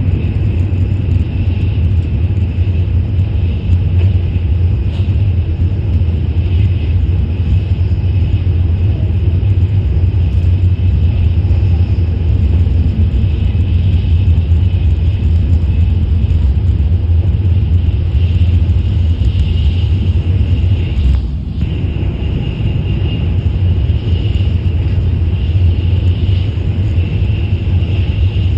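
Shinkansen high-speed train running steadily at speed: a continuous low rumble with a fainter high hiss over it, briefly dipping about three-quarters of the way through.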